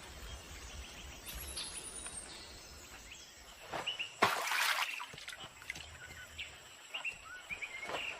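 Outdoor nature ambience with small birds giving short, scattered chirps. A brief loud noisy burst about four and a half seconds in is the loudest sound.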